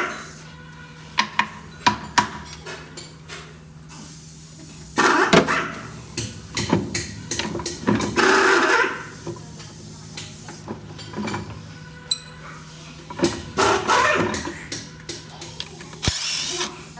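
Irregular knocks and clanks of tool work over a steady low hum.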